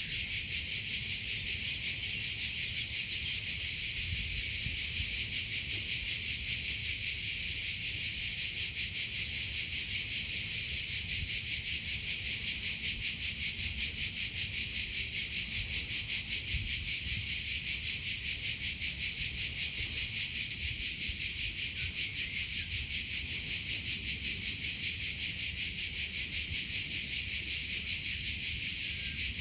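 Cricket chirping in a continuous high trill with a fast, even pulse.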